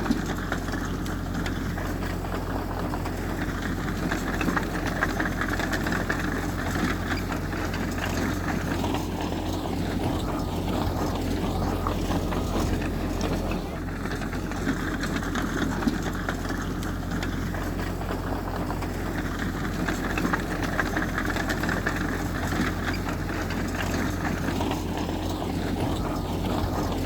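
Diesel engine of heavy earthmoving machinery running steadily, a continuous low drone.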